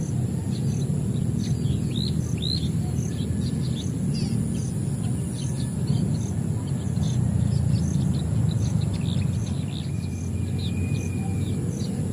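Many small birds chirping and twittering over a steady low rumble, with a thin high insect drone and an insect ticking a couple of times a second.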